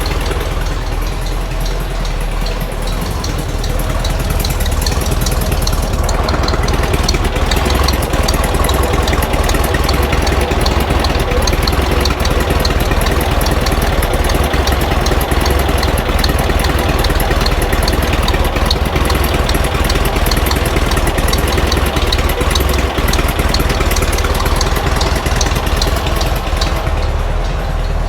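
Air-cooled VW flat-four engine idling steadily, with a fast ticking running through it, a little louder from about six seconds in. The owner thinks the ticking might call for a valve adjustment.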